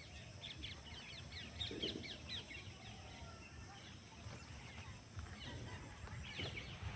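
Faint chirping of small birds, many quick short calls, thickest in the first couple of seconds and again near the end, over a low rumble.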